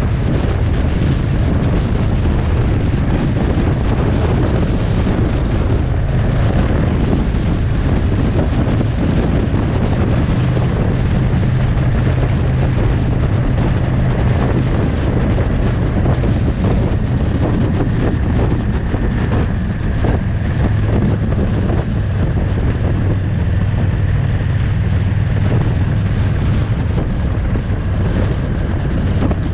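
Motorcycle ride at steady speed: wind rushing over the microphone, with the engine's steady low drone underneath.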